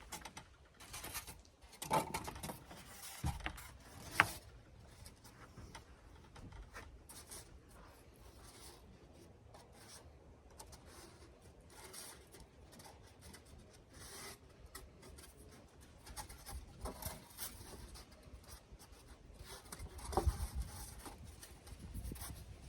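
Rubbing, scraping and light irregular knocks of foam board insulation being handled and fitted by hand, with a sharp click about four seconds in.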